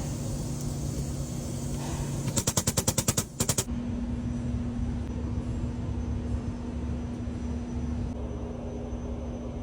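A pneumatic grease gun firing a quick run of about a dozen sharp clicks, some ten a second, for just over a second, against a steady low hum. This is the greasing of a bus's never-greased brake and steering points, suspected of causing a clunk when braking.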